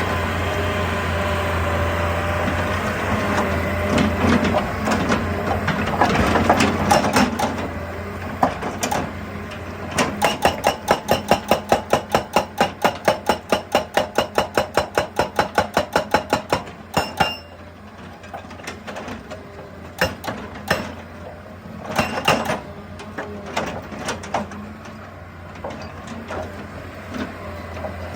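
Excavator's diesel engine running under load. It gives way to a hydraulic breaker hammer pounding rock in a fast, even run of blows, about four a second for some six seconds. Scattered knocks of rock follow.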